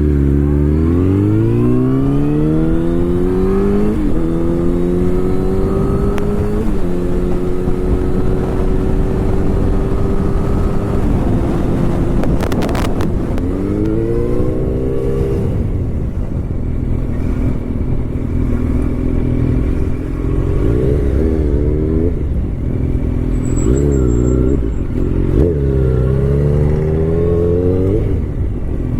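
Motorcycle engine accelerating through the gears, its pitch climbing and dropping back at each shift, then running at a steadier pace with several more short revs, over constant wind rush on the microphone. A brief knock sounds about halfway through.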